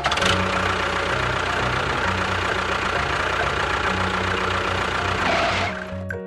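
A small motor running steadily, stopping about a second before the end, with background music underneath.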